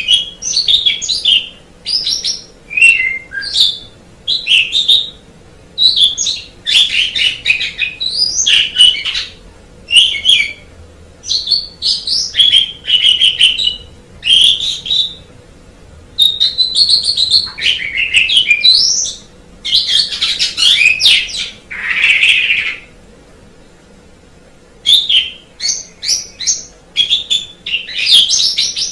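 Asian pied starling singing: a long run of varied whistles, chirps and harsh, scratchy phrases in short bursts with brief gaps, and one longer pause about two-thirds of the way through.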